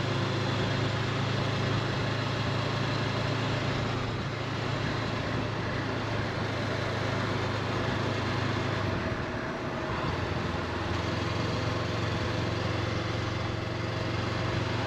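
Honda CB500X parallel-twin engine running steadily on the road, its note dipping briefly about nine seconds in before settling again.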